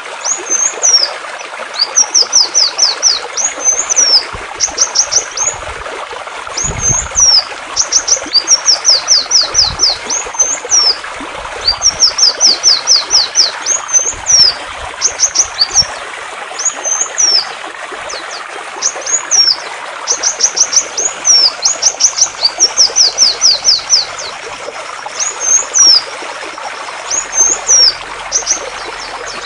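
A songbird singing over steadily flowing water: quick runs of high, down-slurred notes, each run under a second, alternating with single hooked notes, repeated throughout.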